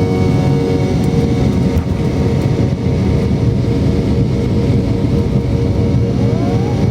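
Steady engine and airflow noise inside the cabin of a Boeing 717, its rear-mounted Rolls-Royce BR715 turbofans running with a constant low rush and a few held hum tones.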